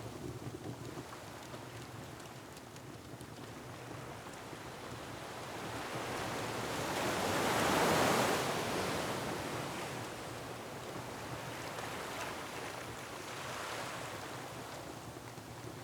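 Ocean surf on a rocky shore: a wave swells to a peak about halfway through and then washes back. Faint fireplace crackles ride over it.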